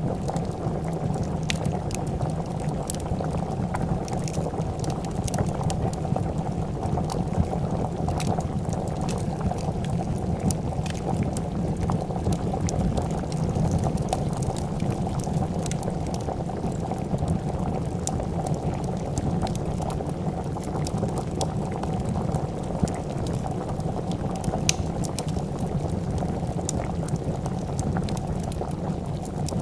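A pot of soup at a steady boil, bubbling continuously, with scattered sharp crackles and pops from a wood fire.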